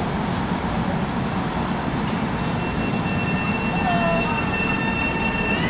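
Long Island Rail Road electric train at the platform: a low rumble, with a steady high whine from the train setting in about two seconds in. Right at the end the whine starts to rise in pitch as the train begins to pull away.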